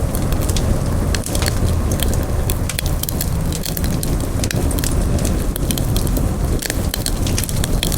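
Wood campfire burning, with frequent irregular sharp crackles and pops over a steady low rush.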